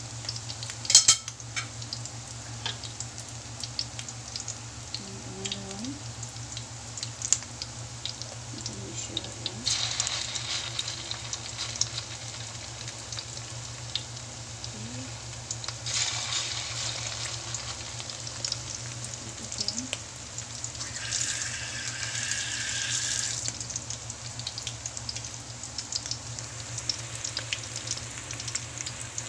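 Alamang shrimp fritter batter deep-frying in oil in a wok: a steady crackling sizzle with small pops, swelling louder a few times. There is a sharp clack about a second in.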